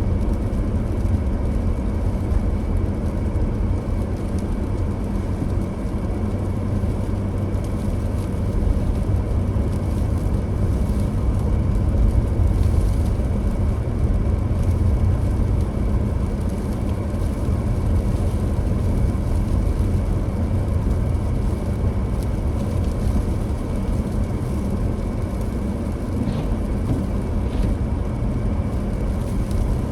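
A car driving: a steady low rumble of engine and road noise, with two faint ticks near the end.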